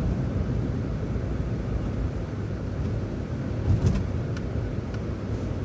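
City transit bus driving along a road: a steady low engine and road rumble, with a few short clicks or rattles between about three and a half and five seconds in.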